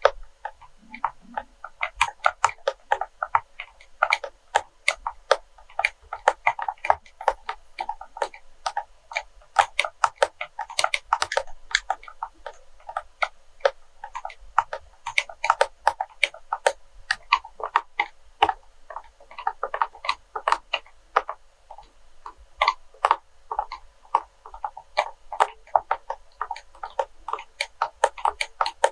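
ASMR tapping and clicking on wax melts: quick, irregular sharp clicks, several a second, with a couple of short lulls.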